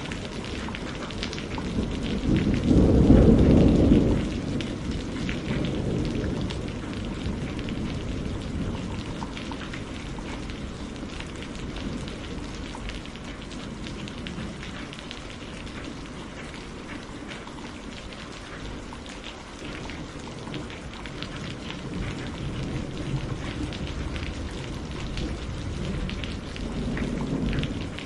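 Steady rain with a loud low rumble of thunder about two to four seconds in and a softer rumble near the end.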